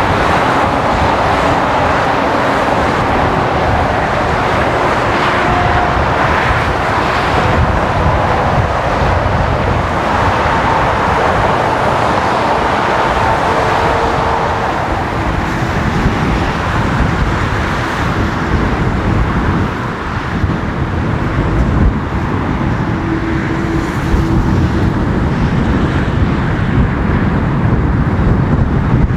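Steady, loud jet engine noise from large twin-engine airliners, its tone changing about halfway through.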